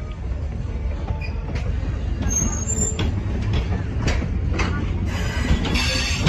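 Passenger railroad cars rolling slowly past: a steady low rumble of wheels on rail, with repeated clicks and knocks from the wheels and couplings.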